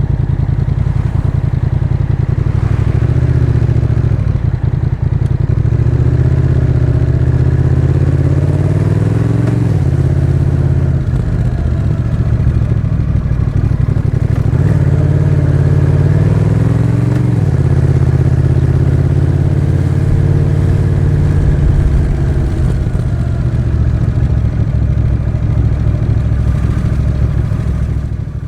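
Honda Rebel 1100's parallel-twin engine running through a Miller exhaust with the dB-Absorber Racing baffle while riding. The engine pulls steadily and twice revs up for a couple of seconds before the pitch drops suddenly.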